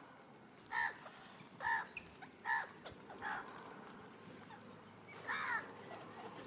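A bird calling: five short calls about a second apart, with a slightly longer one near the end.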